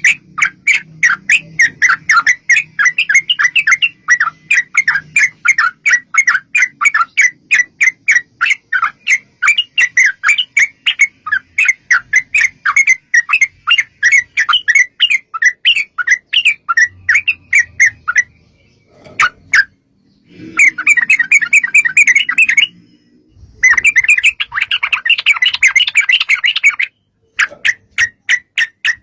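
Yellow-vented bulbul calling: loud, sharp chattering notes repeated about four a second. After a short break about two-thirds through, it gives fast, dense rattling runs, then a few scattered notes near the end.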